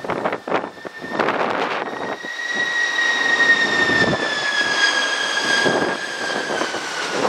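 Airbus A330-300 airliner with General Electric CF6 engines on its landing approach. The engines give a high whine that comes in about two seconds in and slowly falls in pitch as the jet passes, over gusting wind buffeting the microphone.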